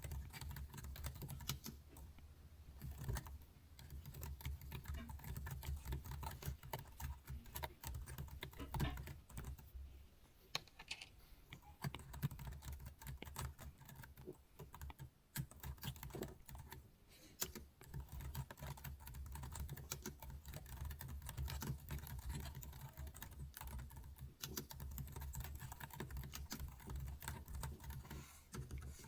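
Computer keyboard keys clicking in irregular, uneven taps, over a low steady hum.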